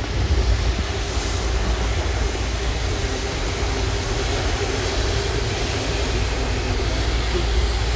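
Jet airliner engine noise: a steady, even rumble with a hiss over it, holding level without a break.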